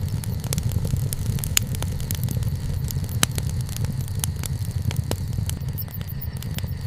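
Wood bonfire burning: a steady low roar of the flames with frequent crackles and pops of the burning wood, two of them louder, about a second and a half and three seconds in.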